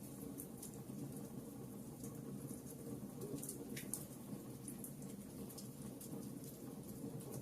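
Wood fire crackling in a fireplace: irregular small pops and snaps over a steady low rush of burning, with a few sharper pops about halfway through.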